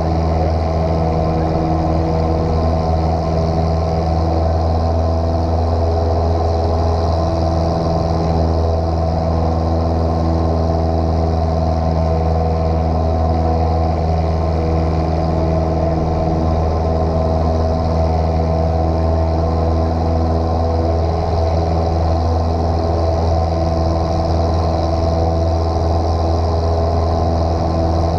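Light airplane's piston engine and propeller droning steadily at a constant power setting, with no change in pitch.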